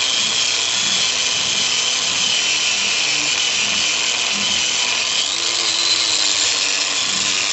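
Power-tool wire wheel scouring a steel brake backing plate down to bare metal before welding: a steady, loud high whir with scraping, held without a break.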